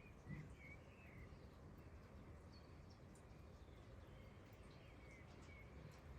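Very faint outdoor ambience: a few short bird chirps, about a second in and again near the end, over a low steady background hiss.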